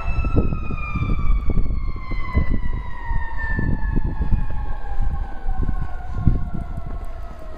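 An emergency vehicle's siren holding one long tone that falls slowly and steadily in pitch, over irregular low thumps and rumble.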